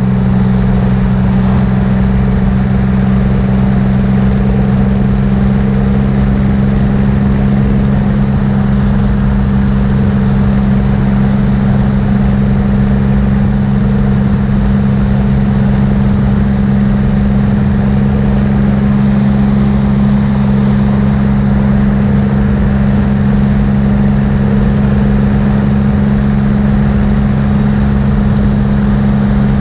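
Triumph motorcycle engine running steadily at highway cruising speed, a constant low drone that does not change, with rushing wind and road noise over it.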